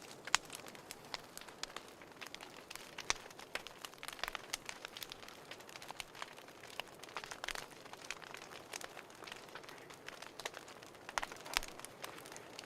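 Wood fire crackling in a fireplace: irregular pops and snaps over a soft steady hiss.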